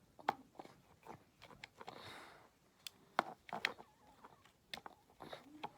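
Scattered sharp clicks and knocks of plastic toy parts and a screwdriver being handled, with a short rustle about two seconds in.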